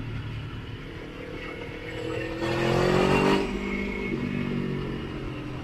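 Motorcycle engine running on the road, rising in pitch as it accelerates from about a second and a half in. It is loudest for about a second, then eases back to a steady run.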